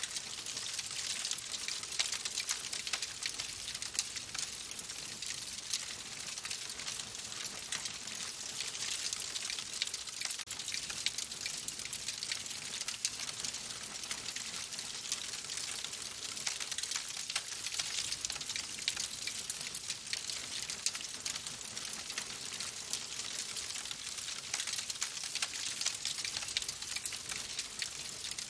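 Wood fire crackling in a fireplace: a steady, dense run of small crackles and pops over a soft hiss.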